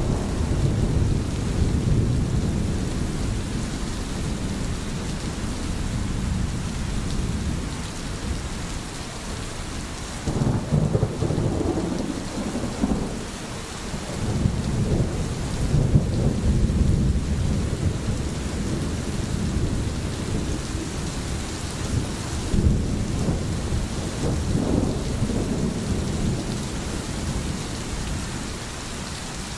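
Steady heavy rain with rolling thunder rumbling low underneath, the rumble swelling about ten seconds in and again a few seconds later.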